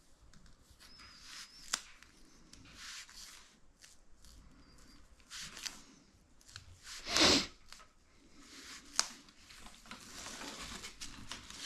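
Irregular rustling and scraping of hand work with materials, with sharp clicks about two seconds in and again about nine seconds in, and a louder scrape about seven seconds in.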